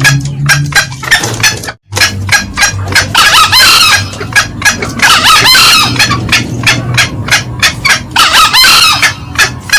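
Green junglefowl calling: rapid repeated cackling notes about four a second, with louder hoarse crowing calls three times, at about 3, 5 and 8 seconds in. The sound cuts out briefly just before 2 seconds in.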